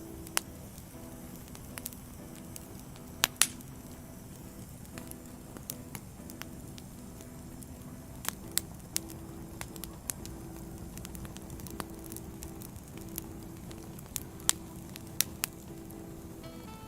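Wood fire crackling: a steady low hiss of burning logs with irregular sharp pops and snaps, the loudest a quick double pop about three seconds in.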